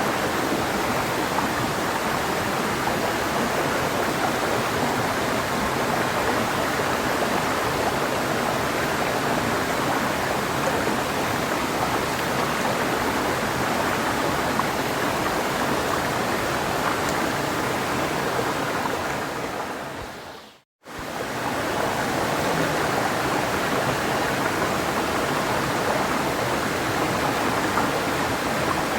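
Clear mountain river flowing steadily, an even rush of water. About two-thirds of the way through, the sound fades out to a moment of silence and then fades straight back in.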